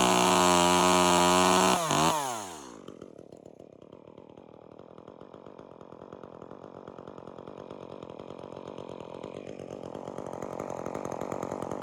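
Two-stroke chainsaw held at full throttle, then released about two seconds in, its pitch falling quickly; it then idles steadily and more quietly for the rest of the time.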